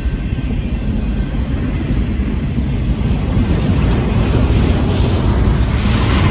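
Double-stack intermodal freight train rolling past close by: a steady, loud rumble of steel wheels on the rails under the container well cars. A rushing hiss grows louder near the end.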